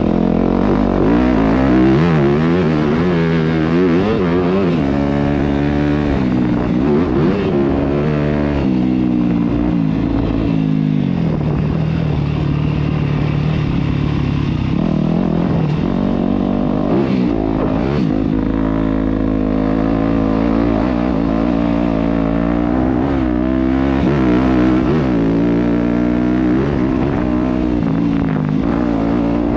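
Yamaha YZ250F dirt bike's four-stroke single-cylinder engine running under load on a trail ride, revving up and falling back in pitch over and over as the throttle is worked.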